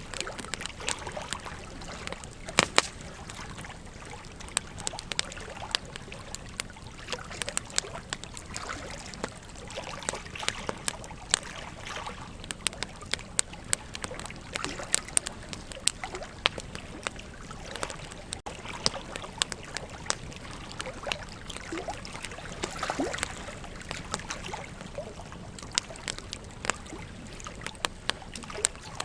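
Wood campfire crackling, with frequent irregular sharp pops, over the steady rush of a flowing river.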